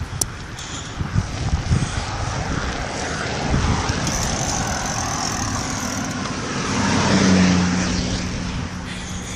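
Road traffic: a motor vehicle goes by, its engine hum swelling to a peak about seven seconds in and then fading, over a steady rushing of wind and tyre noise.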